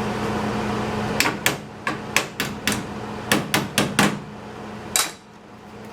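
A hammer tapping on sheet metal: about ten sharp, irregular strikes over some four seconds over a steady machine hum, which stops just after the last strike.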